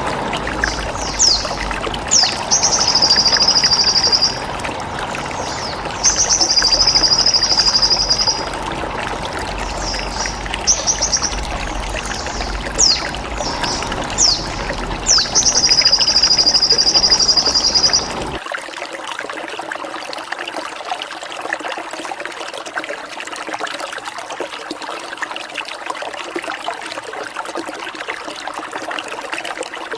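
Bird-training recording: quick downward-sweeping chirps and three buzzy trills of about two seconds each, over trickling water. About 18 seconds in, the calls stop and only the water trickle goes on.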